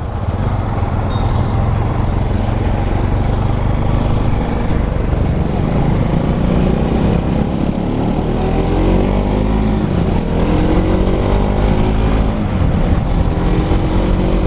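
Motorcycle engine running under way, its pitch climbing as it accelerates, dropping at a gear change about ten seconds in, climbing again and dropping once more near the end.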